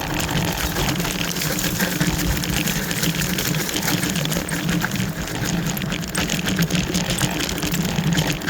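Wolf Warrior 4x4 electric mobility scooter driving on a hill track: a steady low motor hum, with a rough crackle of tyres over the ground.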